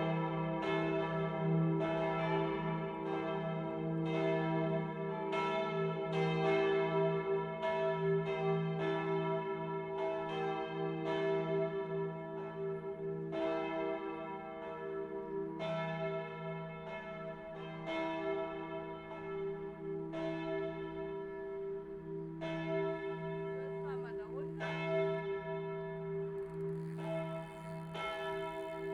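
Full peal of five bronze church bells cast in 1964 by Friedrich Wilhelm Schilling, tuned e', g', a', c'' and d'', swinging together and heard from outside the tower. Their strikes overlap in an irregular stream about twice a second over a steady, sustained ringing hum.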